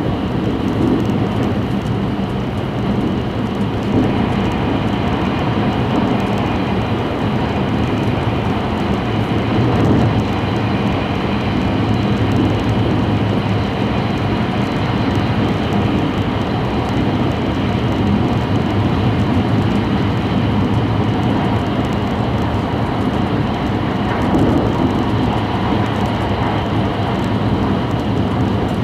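Steady running noise heard inside the cabin of an E5 series Shinkansen train travelling at speed, an even, unbroken rumble.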